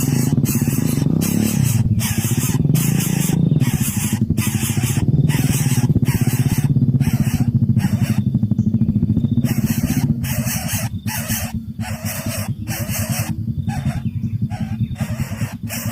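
Coucal chicks hissing in rapid repeated bursts, about two a second, over a dense low buzzing that eases off about two-thirds of the way through.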